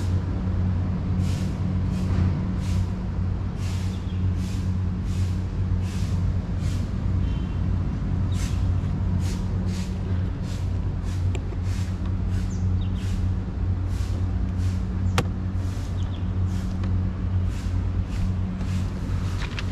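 Toyota Innova Venturer 2.0's engine running with a steady low hum, under a regular clicking about one to two times a second and one sharper click about three-quarters of the way through.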